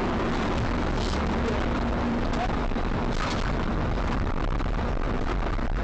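Steady rumble of a moving vehicle's road and engine noise, with a few faint clicks.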